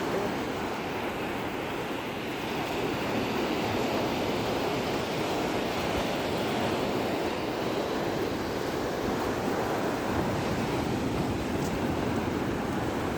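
Ocean surf: a continuous wash of breaking waves, steady in level, with no single crash standing out.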